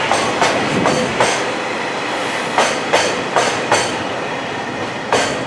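Freight train of tank wagons rolling by, its wheels clacking over a rail joint in quick groups of about four every two and a half seconds, over a steady rumble of rolling wheels.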